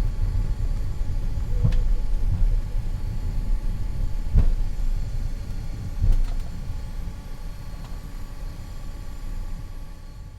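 Flight-deck noise of an Avro RJ100 taxiing, its four Lycoming LF507 turbofans at ground idle: a steady low rumble with faint steady tones above it and a few short knocks. The noise fades out near the end.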